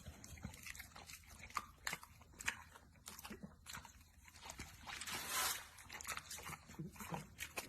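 A dog chewing, with scattered crunching clicks throughout and a short hissing burst about five seconds in.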